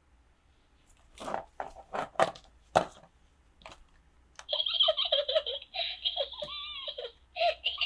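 Giggling voice: a few short laughs, then a longer run of giggling with rising and falling pitch from about halfway through.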